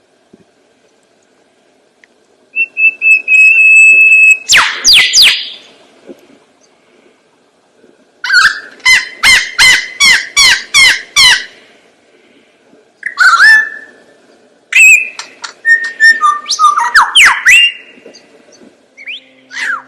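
A songbird singing bouts of varied whistled phrases with short pauses between them: a held steady whistle, then sharp sweeping notes, a fast run of about a dozen repeated notes near the middle, and a mix of different phrases near the end.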